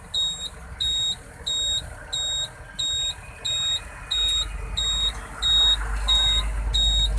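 Truck's reversing alarm beeping a steady high tone, about three beeps every two seconds, over the engine's low rumble. The engine grows louder about four seconds in.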